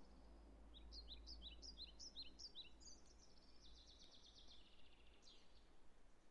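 Faint recorded birdsong from a backing track: a run of about eight quick high chirps, then a rapid trill, over a steady low hum.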